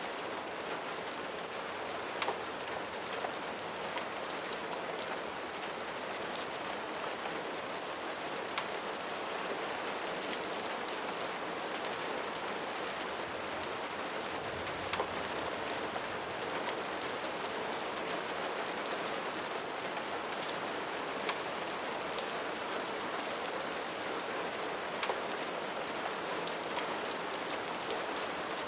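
Steady rain falling, with scattered sharp ticks of individual drops or crackles over an even hiss.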